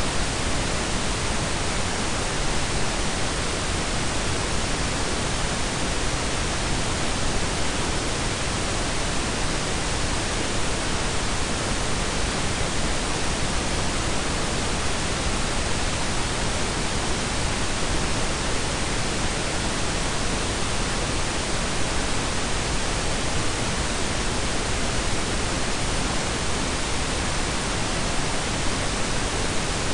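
Blended pink and brown noise, a synthetic sleep noise: a steady, unchanging hiss with a deep low end.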